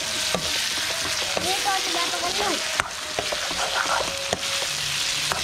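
Tomatoes and spice masala frying in a pan with a steady sizzle while being stirred with a spatula, which clicks and scrapes against the pan several times.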